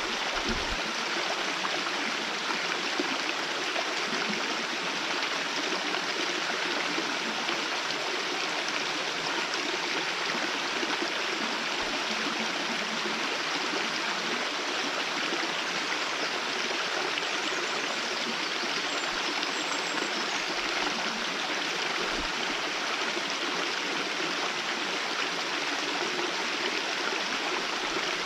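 Steady rush of water from a small waterfall running at low flow, falling in a thin stream.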